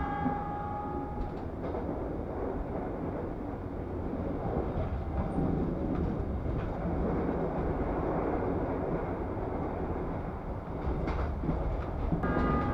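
Steady rumble and rush of the Ciremai Ekspres passenger train running at speed, heard from inside an executive-class coach, with a few brief clicks. A held multi-note tone sounds for about the first second and again near the end.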